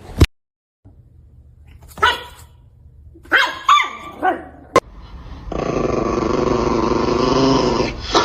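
A dog giving a few short barks, then a long drawn-out sustained call near the end.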